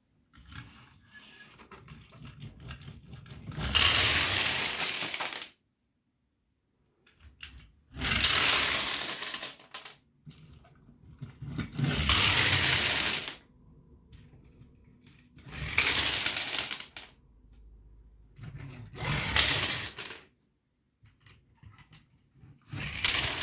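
Dominoes toppling and clattering in a chain, in six loud rushes of dense clicking a few seconds apart, with quieter scattered ticks between them.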